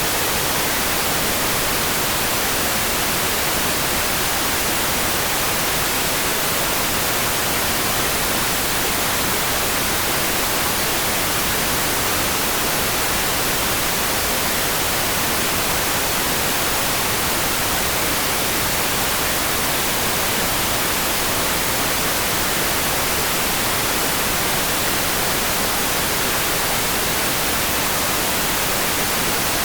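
Rain sound for sleep: a steady, even hiss weighted to the high end, with no separate drops or changes, much like white noise.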